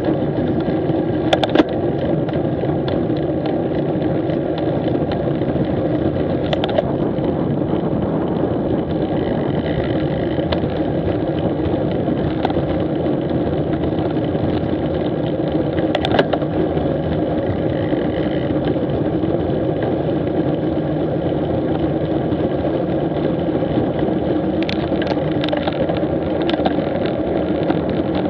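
A motorcycle engine running steadily during a ride, its pitch holding even throughout, with a few brief sharp clicks.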